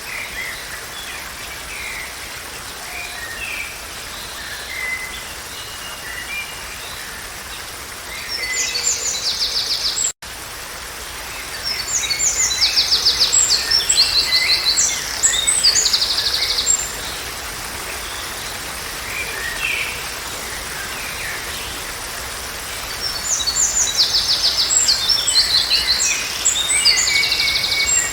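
Songbirds singing: scattered short chirps and three louder song phrases of rapid trills, over a steady background hiss. The sound cuts out for an instant about ten seconds in.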